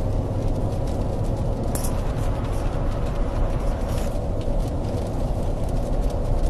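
Car driving, heard from inside the cabin: a steady engine and road rumble with a faint steady whine, and two brief clicks.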